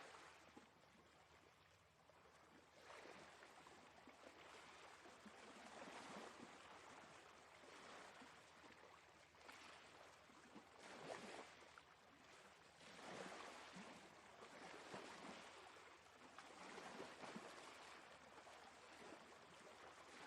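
Sea waves washing in, heard faintly, the surf noise swelling and falling every second or two.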